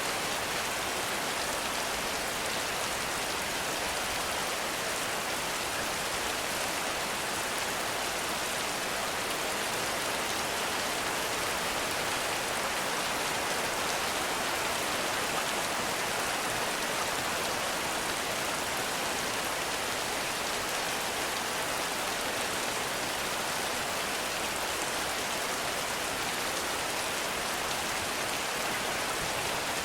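Heavy rain falling steadily on the forest canopy and ground, an even hiss of drops with no thunder.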